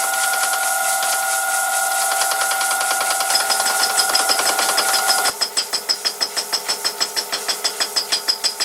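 A machine tool running with a steady whine. About five seconds in, the sound changes abruptly to a rapid, even clicking of about six a second.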